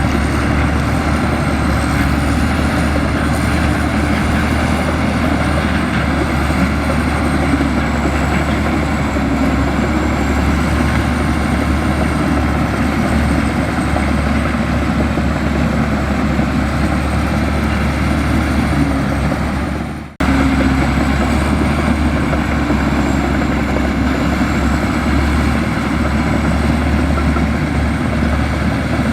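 Heavy diesel engine of a Komatsu bulldozer running steadily under work, with a faint high wavering whine above it. The sound drops out abruptly for an instant about two-thirds of the way through, then resumes.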